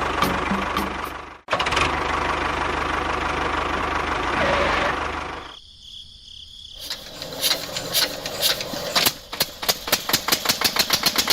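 A small engine running, cut off abruptly about one and a half seconds in and then running again. Near the end it becomes a rapid ticking that speeds up.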